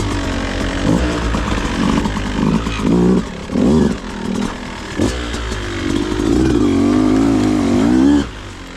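Beta 200RR two-stroke dirt bike engine running at low speed, its revs rising and falling several times as the throttle is worked. The sound cuts off abruptly near the end.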